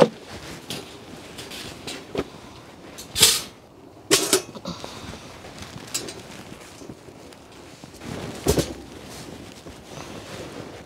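Strong gusty wind, with irregular sharp flaps and knocks over a steady rush, the loudest about three, four and eight and a half seconds in.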